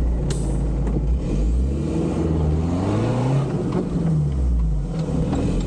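Off-road 4x4 engine revving: it climbs in pitch from about a second and a half in, peaks a couple of seconds later, then falls back.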